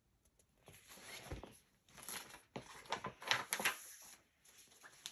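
Pages of a picture book being turned and handled: irregular paper rustles and brushes, with a soft thump about a second and a half in.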